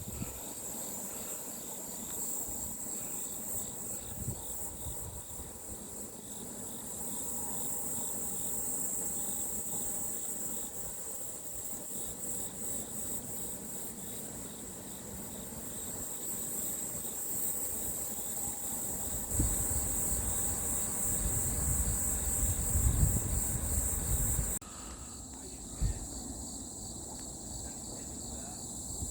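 A steady, high-pitched chorus of insects chirring in fast pulses. From about two-thirds of the way through, a low rumble lies over it for a few seconds, then stops abruptly where the recording cuts.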